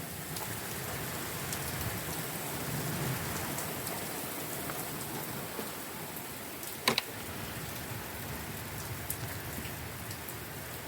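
Rain falling steadily in a storm, with scattered light ticks and one sharp double knock about seven seconds in.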